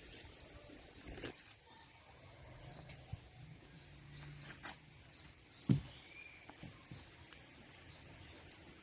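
Small birds chirping over and over in short high notes against quiet rural ambience, with a few sharp knocks from handling, the loudest one about two-thirds of the way through.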